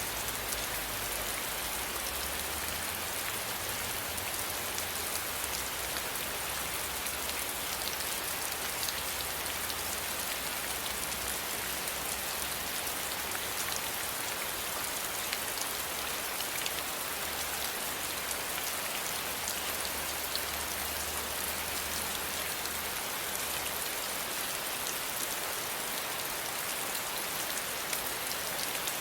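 Steady rain, an even hiss of falling rain with many fine drop ticks throughout, and a faint low rumble underneath that comes and goes.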